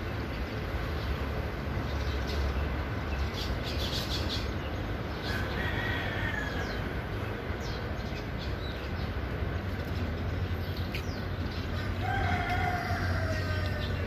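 A bird calls twice over a steady low rumble: a short call about five seconds in, then a longer call near the end. Faint clicks are heard a few seconds in.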